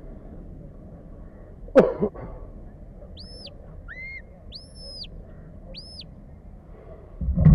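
Sheepdog handler's whistle commands to the working dog: four short, high whistles between about three and six seconds in, most rising, holding and dropping in pitch, one lower and rising. A brief loud call falling in pitch comes just before two seconds in, and a low rumble starts near the end.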